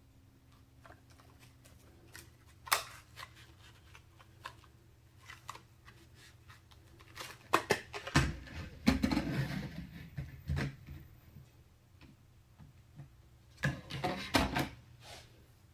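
Hands handling computer parts and packaging: scattered clicks and taps, a longer stretch of rustling and knocking a little past halfway, and a quick cluster of clicks and clatter near the end.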